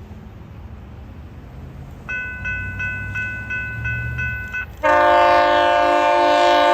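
An approaching train rumbles low while a railroad crossing bell rings in quick repeated chimes, about three a second. About five seconds in, the locomotive's air horn starts a loud, steady blast.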